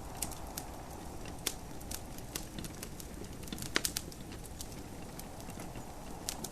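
Wood fire crackling with irregular sharp pops, a cluster of louder ones about four seconds in, over a steady rushing hiss of gentle rain.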